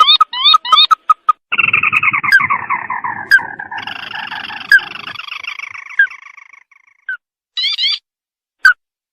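A red-eyed crake (burung tikusan mata merah) calling: a few quick rising whistled notes, then a long, falling, rattling trill of about five seconds that fades away, and near the end a short burst of rising notes.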